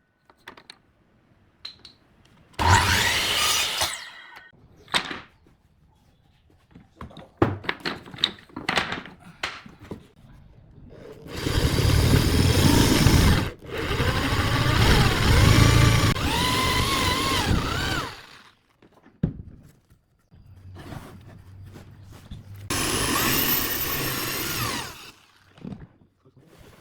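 Power tool running in several bursts, the longest about seven seconds, its pitch sliding up and down as it works, with short knocks and taps between the runs.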